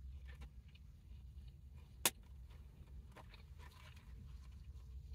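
Low, steady hum of a car's engine idling, heard from inside the cabin, with a single sharp click about two seconds in.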